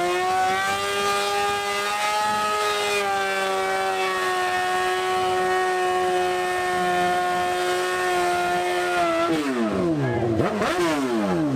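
Car engine held at high revs at a steady pitch, then let drop about nine seconds in and blipped several times, the revs falling away after each blip.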